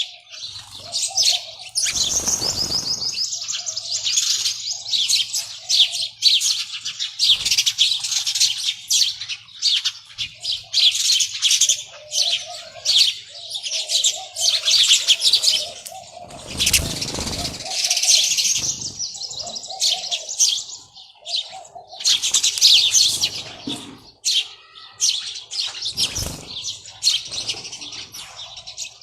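Many small birds chirping continuously in a dense, overlapping chorus, with low repeated notes underneath. Three brief bursts of noise break in, at about two seconds, in the middle and near the end.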